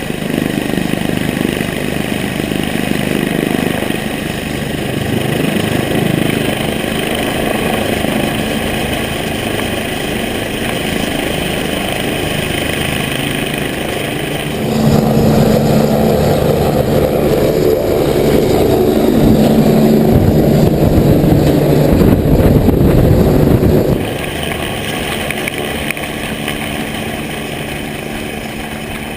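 Engine running steadily, with high steady tones above it. About fifteen seconds in it suddenly gets louder and heavier for about nine seconds, then drops back.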